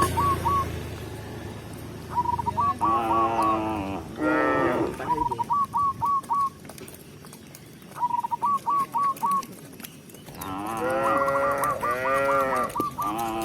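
Cows mooing, several calls in a row: a couple of short ones early and a longer run of calls in the last few seconds. Groups of four or five short, high, quick notes, likely from a bird, recur between the moos.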